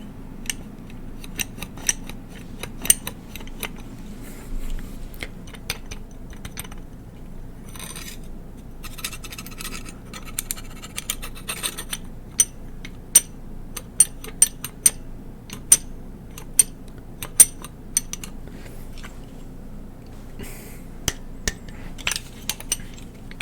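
Old broken toy gun's mechanism worked by hand: irregular sharp clicks with a few short stretches of scraping, the broken part giving a distinct click.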